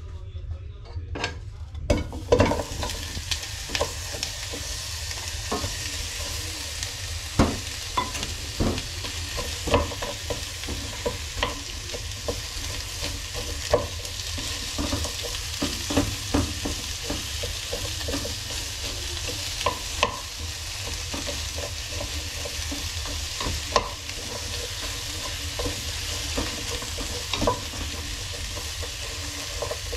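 Vegetables sizzling in hot oil in a pan, the sizzle starting suddenly about two seconds in and then holding steady, with irregular knocks of a utensil stirring against the pan.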